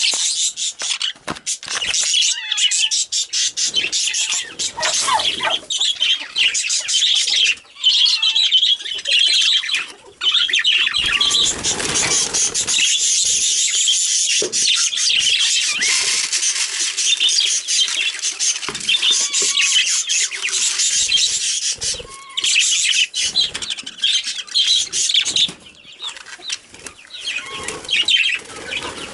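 Pet budgies (parakeets) chattering and warbling with many quick chirps and clicks, with a stretch of rustling noise about eleven seconds in.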